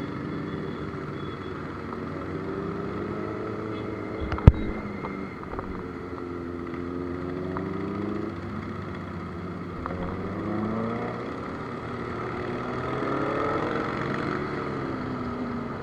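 Motorcycle engine running on the move, its pitch rising and falling repeatedly as it accelerates and eases off, with one sharp knock about four and a half seconds in.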